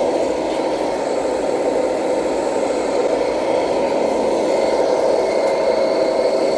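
Radio-controlled scale model truck running steadily, with a constant mechanical engine-like drone.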